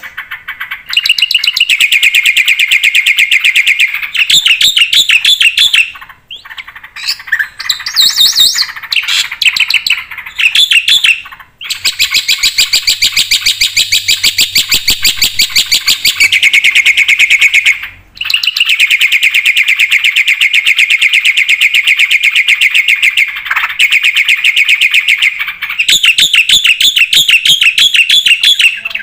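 Black-winged starling singing in full, continuous song: long runs of rapid, repeated notes, broken by a few short pauses and some more varied phrases.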